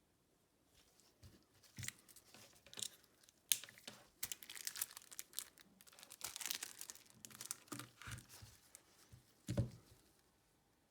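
Crinkly plastic being handled and torn, with irregular rustling, a sharp click, and a dull thump near the end.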